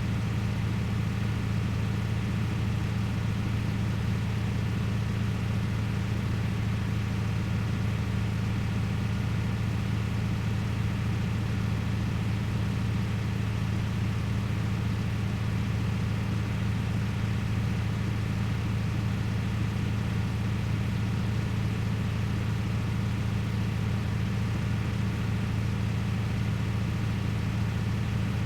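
Truck engine running steadily at a constant speed, a low, even hum with no revving or changes in pitch.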